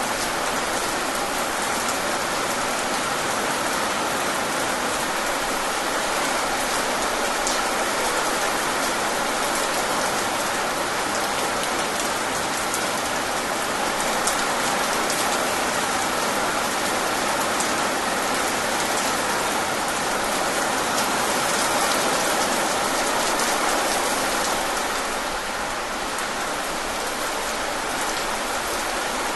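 Steady rain falling, with sharp drop ticks standing out here and there.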